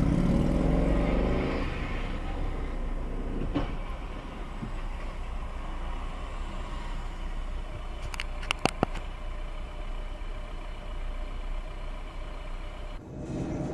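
Car engine revving up as the car accelerates for the first couple of seconds, then settling into steady engine and road noise. A few sharp clicks come a little past the middle.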